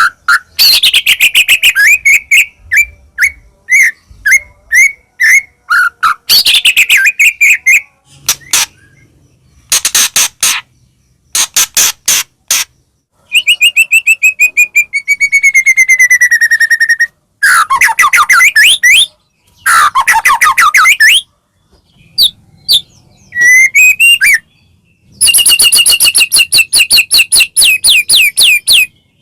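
White-rumped shama (murai batu) in full song: loud phrases of clear whistles, rapid trills and gliding notes, broken by short pauses.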